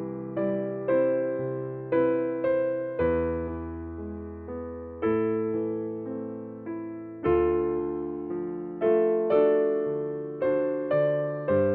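Slow, gentle electric piano playing chords and single notes, about two notes a second, each one struck and fading.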